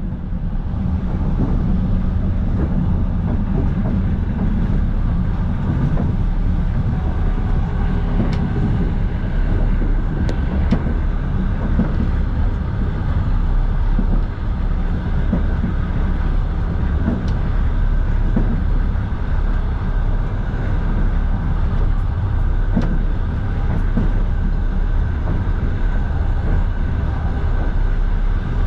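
Russian passenger train running steadily, heard from inside the carriage: a continuous low rumble of wheels on rail, with a few faint clicks now and then.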